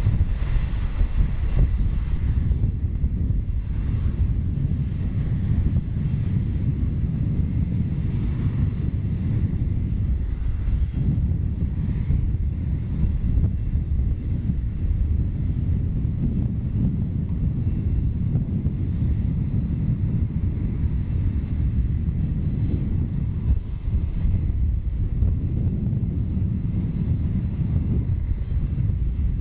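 Boeing 737-800 jet airliner landing, its CFM56 turbofan engines giving a steady low rumble with a faint high whine above it.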